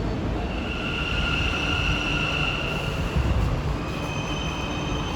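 Train running on rails with a low rumble and a steady high-pitched wheel squeal over it. Near the end the squeal gives way to a few thinner whining tones.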